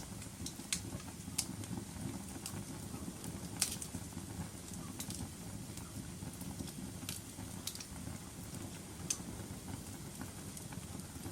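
Wood fire burning in a fireplace: a steady low rumble of flames with sharp, irregular crackles and pops scattered through it.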